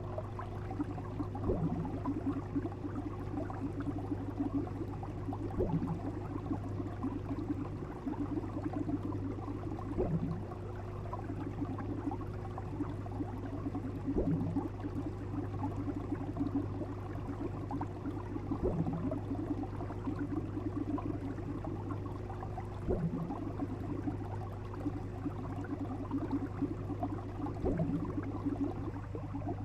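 Fish sound effect: steady bubbling over a constant low hum, with a short rising call repeating about every four seconds.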